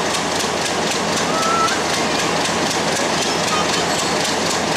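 EMD GT18LA-2 diesel-electric locomotive hauling a metre-gauge intercity train slowly along the track, with a steady wash of noise and a regular clicking about four times a second.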